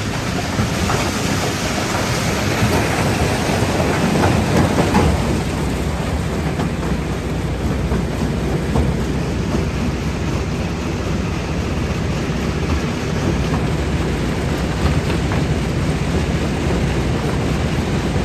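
Jaw crusher running and breaking rocks: a steady heavy rumble with rocks clattering and cracking, busiest in the first five seconds.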